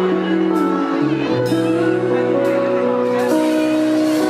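Live band playing a song's instrumental intro: sustained keyboard chords over a bass line, with a cymbal strike about once a second.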